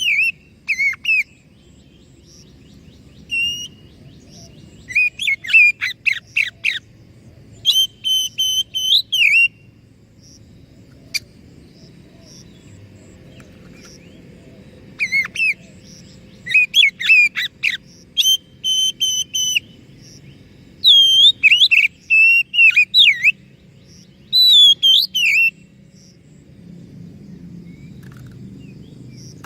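Oriental magpie-robin (kacer) in full song: bursts of clear whistled and chattering phrases, with a gap of several seconds in the middle, over low background noise.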